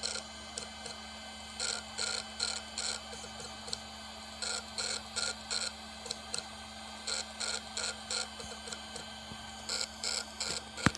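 Hard disk drive that fails to be recognised, making an abnormal noise: short mechanical bursts in irregular groups of two to four over a steady hum. This is the sign of the drive being unable to read.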